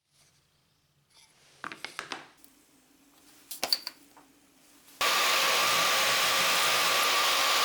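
A few light wooden knocks and clatters of handling, then about five seconds in a trim router starts and runs steadily at high speed with a constant high tone.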